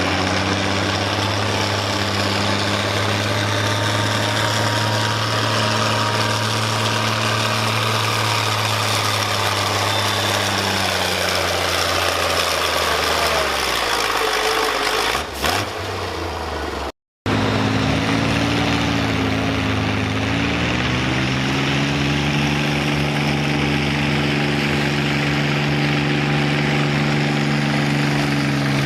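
A pulling tractor's engine runs steadily, then its pitch slides down and fades about halfway through. After a short break, another tractor engine runs, rising a little in pitch, then holding steady.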